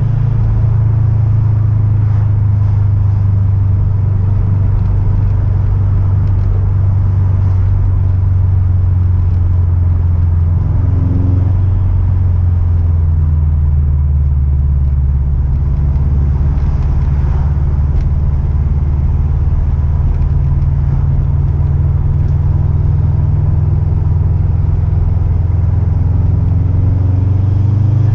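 Car engine and road noise in a steady low drone while driving, with the engine note shifting about halfway through.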